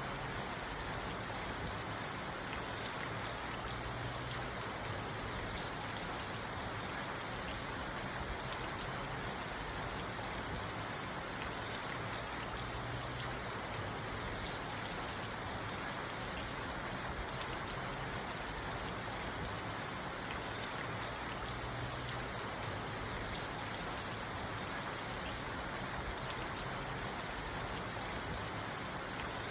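Steady rain falling on a parked car, heard from inside the cabin: an even rush of rain with many small drop ticks on the roof and glass.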